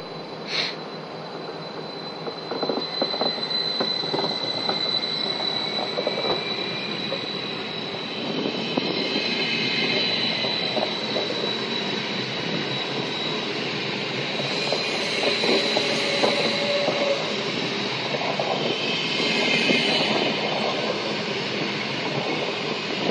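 Stadler FLIRT electric multiple unit pulling away: rolling wheel noise and clatter over rail joints and points, with a faint whine rising slowly in pitch as it gathers speed. A high wheel squeal comes in twice, about two-thirds of the way through and again near the end.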